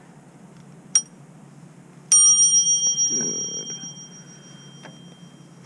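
Bicycle bell: a short ding about a second in, then one sharp ring that rings out and fades over about two seconds.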